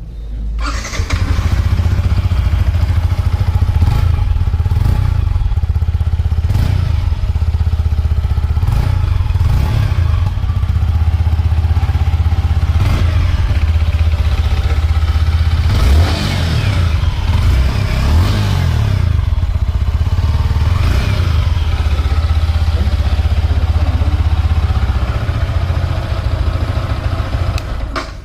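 Yamaha R15M motorcycle's single-cylinder engine running at idle through its exhaust, revved again and again in short throttle blips that rise and fall back to idle.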